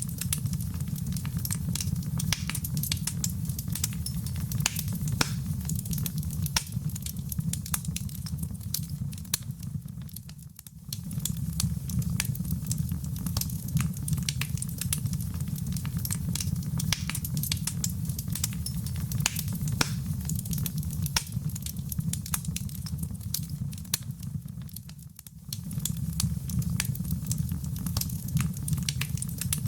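Fireplace fire crackling, with a steady low rumble of flames and many sharp pops and snaps. Twice the sound briefly dips almost away, about a third of the way in and again near the end.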